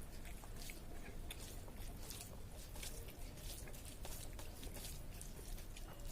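A person chewing a mouthful of rice and curry, with many short, irregular wet mouth clicks.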